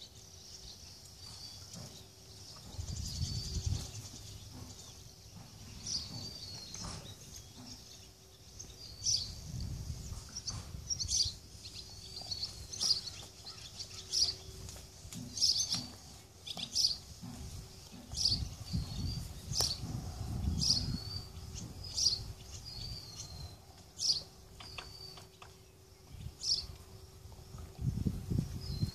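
A songbird repeating short, high chirps every second or two, more regularly from about a third of the way in. Low rumbles come and go a few times underneath, with a faint steady hum.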